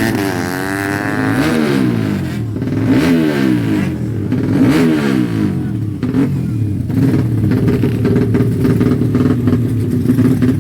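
Honda Karisma's 125 cc single-cylinder four-stroke motorcycle engine being revved during tuning. It is blipped up and down about three times, then settles to a steady idle about two-thirds of the way through.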